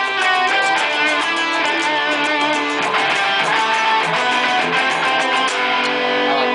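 Live rock band playing an instrumental passage: electric guitars with bass and drums, cymbals ticking steadily above.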